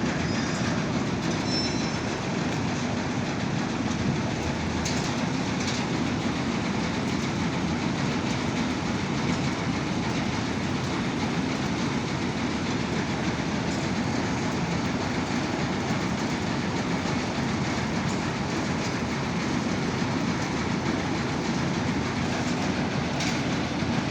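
Kartar combine harvester running steadily, a continuous loud mechanical rumble and rattle with no letup.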